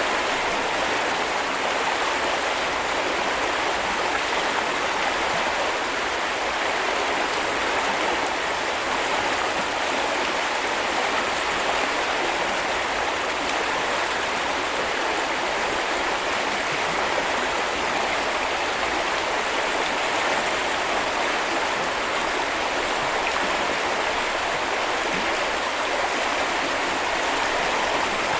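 Small river or brook flowing steadily over stones, an even rushing babble of running water.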